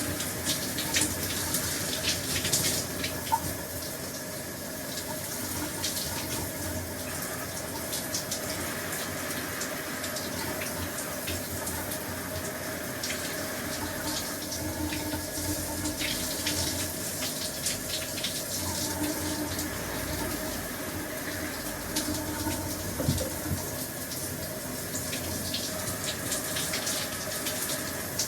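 Shower running steadily, water spraying and splattering, with a faint steady tone underneath.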